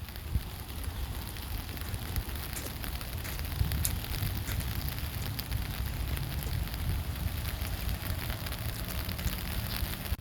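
Rain pattering with dense small crackling ticks, over a steady low rumble of wind on the microphone.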